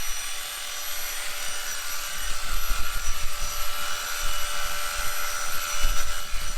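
Electric sheep clippers running with a steady high whine while dagging a ewe, shearing the dirty wool from around her back end.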